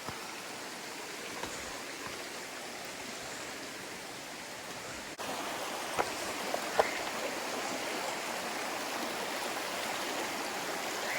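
Steady rush of running water from a forest stream or waterfall. About five seconds in the sound cuts to a slightly louder rush, with a few short sharp sounds soon after.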